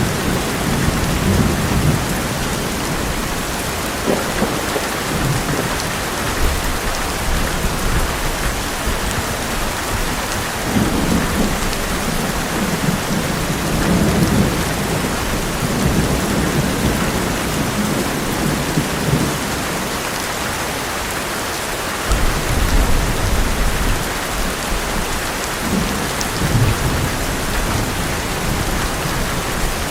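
Heavy rain falling steadily on an old metal roof, with low rolling thunder that swells and fades again several times.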